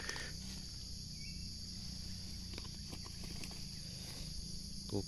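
Steady chorus of insects making a high, even drone, with a few faint clicks and rustles.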